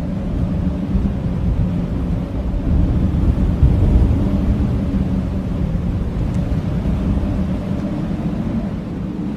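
Howling blizzard wind blowing steadily in a deep rush, with a gust swelling about four seconds in.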